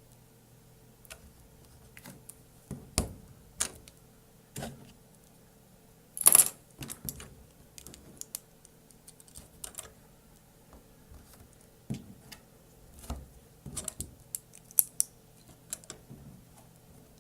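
Plastic LEGO bricks clicking and clattering in irregular small taps as pieces are handled and snapped together, with a louder clatter about six seconds in, over a faint steady hum.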